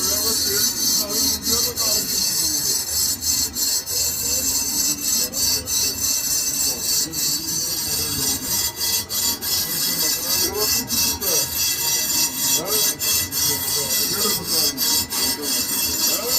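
Metal being worked on a lathe: a continuous rasping scrape, strongest in its high hiss, that dips briefly two or three times a second like repeated strokes.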